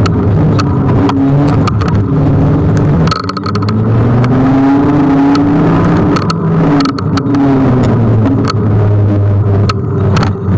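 Ride noise on a Kugoo G1 electric scooter in city traffic: a loud steady rumble with pitched engine tones from nearby cars slowly rising and falling, and frequent sharp knocks as the scooter goes over bumps.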